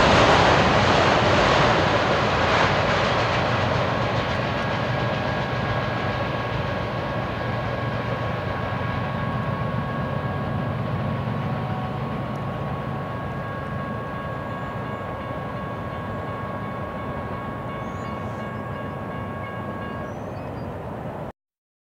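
Freight train with auto-rack cars rolling away, its rumble and rattle fading steadily into the distance. A few thin, steady high tones sit faintly over it in the second half. The sound cuts off abruptly near the end.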